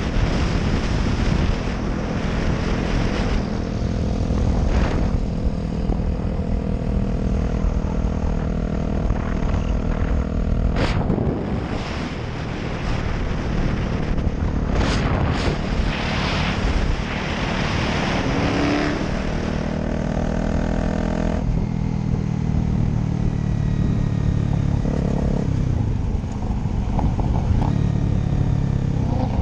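Motorcycle engine running at cruise, heard from the rider's position with wind rushing over the microphone. The wind noise drops off about two-thirds of the way through while the engine keeps running.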